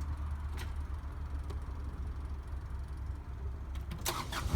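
Small diesel tractor engine idling steadily, with a few light clicks and knocks. Near the end comes a short burst of sharp clicking.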